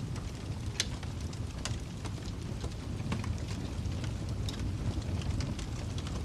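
Wood fire crackling in a fireplace: irregular sharp pops and snaps over a steady low rumble of burning, with one louder pop about a second in.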